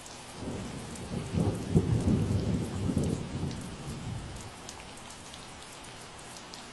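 Steady rain falling, with scattered drops ticking, and a low roll of thunder that swells about half a second in, peaks around two seconds and fades out within a few seconds.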